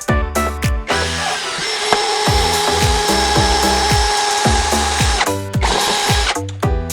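Cordless drill/driver running while assembling flat-pack cabinets: one long steady run starting about a second in, a brief stop, then a short second run, over background music.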